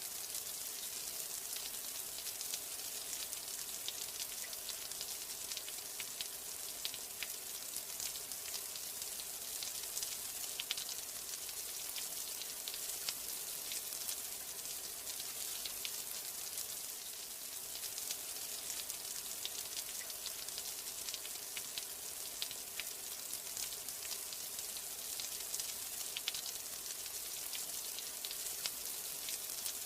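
Steady rain: a dense, even hiss with many fine, sharp drop ticks scattered through it.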